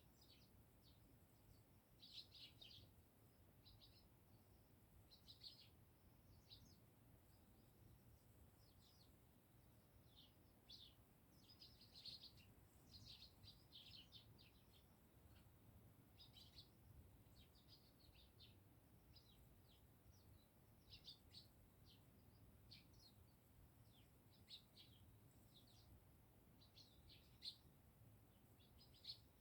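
A flock of Eurasian tree sparrows chirping: many short, quiet chirps in irregular clusters, over a faint low background rumble.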